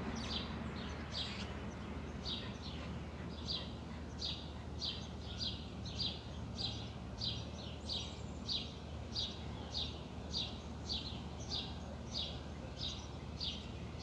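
A bird calling a short downward-sliding chirp over and over, about two a second, without a break, over a faint steady low hum.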